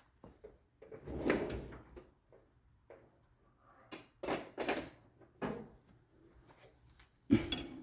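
Metal hand tools being handled and set down, a few separate clanks and knocks with the loudest near the end.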